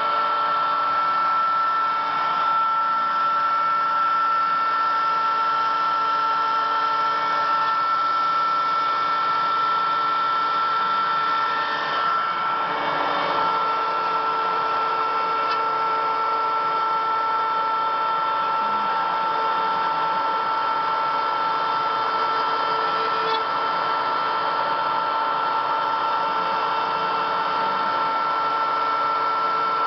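Homemade CNC machine running: a steady motor hum with a high, constant whine, shifting slightly in tone a few times as it works.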